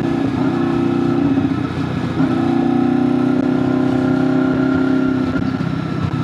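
2001 Honda VFR800FI's V4 engine running at steady road speed, its pitch holding nearly level, with a brief dip about two seconds in.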